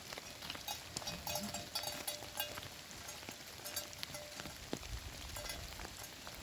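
Rain pattering steadily, with many irregular light ticks and a few short ringing clinks. A low rumble comes in near the end.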